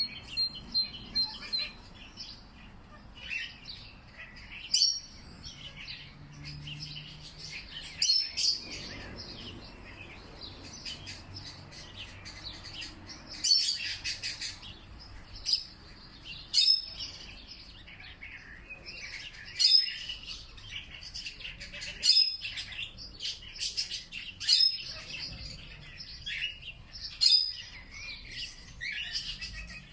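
Several songbirds chirping and singing together, with loud short calls repeating every two to three seconds in the second half.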